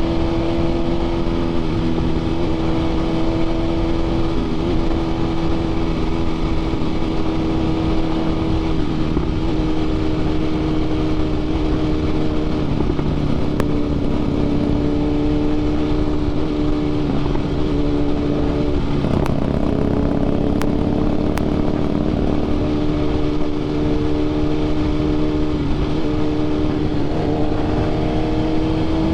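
BMW S 1000 RR inline-four sport-bike engine running at a steady cruising speed with only small throttle changes, heard from the rider's camera with wind rush over the microphone. A few faint clicks sound in the middle.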